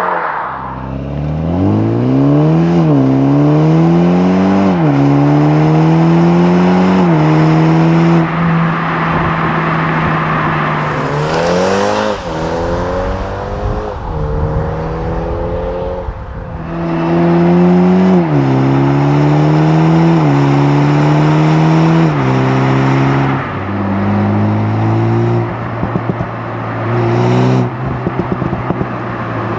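Toyota GR Supra's 2.0-litre turbocharged BMW four-cylinder accelerating hard through a run of upshifts, its pitch climbing and dropping at each shift, then holding steady. A quick rev rises and falls near the middle, a second string of upshifts follows, and the engine then runs lower with a series of sharp exhaust crackles near the end.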